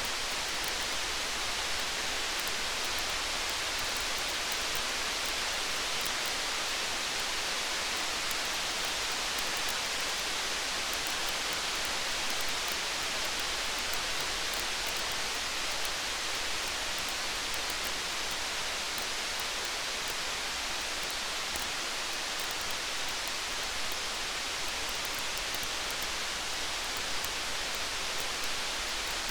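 Steady hiss of rain mixed with a campfire, with faint, scattered small ticks of crackling and drips over the even noise.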